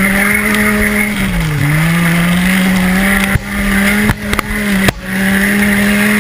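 Demolition derby car's engine running hard, heard close up from the onboard camera, its pitch dipping briefly about a second and a half in and then climbing back. The sound drops out sharply a few times in the second half.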